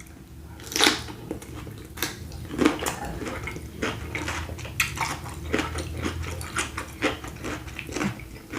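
Close-miked eating of a seafood boil in sauce: wet smacking and chewing with many short, irregular clicks and crackles, the loudest about a second in.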